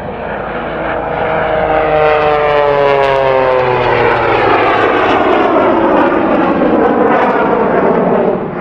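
A propeller-driven aerobatic airplane makes a close, loud pass. Its engine note falls in pitch as it goes by, and the sound drops off near the end.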